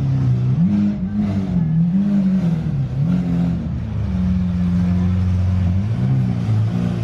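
Car engine running and being revved in short blips, its pitch rising and falling several times, with a steady stretch near the middle.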